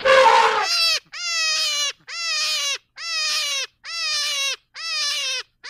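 A harsh, noisy animal call in the first second, then a pitched animal call repeated five times at even spacing. Each call lasts about two-thirds of a second and sinks slightly in pitch before breaking off.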